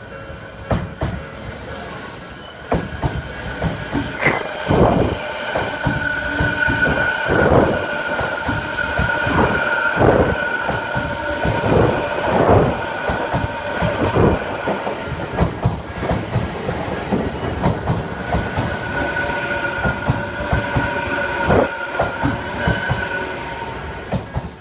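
An electric train passing on the tracks, its wheels clacking over the rail joints in a long irregular run, with a steady high tone held over the clatter. It builds over the first couple of seconds and starts to fade right at the end.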